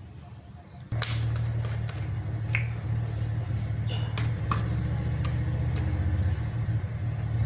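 Mitsubishi Pajero Sport's diesel engine starting about a second in and then idling steadily with a light ticking clatter, freshly filled with new engine oil.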